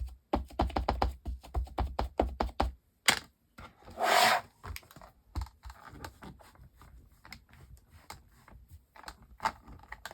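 A Versamark ink pad dabbed rapidly onto a stamp to ink it, about four or five soft taps a second. About four seconds in there is a click and a short rub, then lighter, scattered taps.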